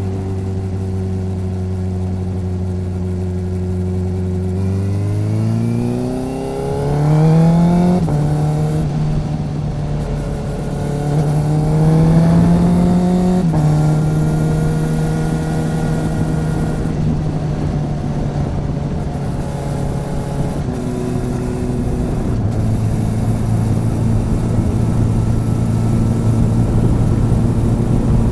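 Motorcycle engine and exhaust, picked up close beside the bike: running steadily, then accelerating with the pitch climbing, dropping sharply at two upshifts about eight and thirteen seconds in, and settling to a steady cruise that steps down to a lower note a little past the middle.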